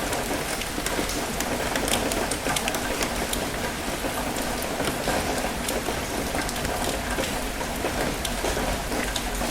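Steady rain with many sharp drop ticks, over the even wash of gentle ocean waves flowing over rocks.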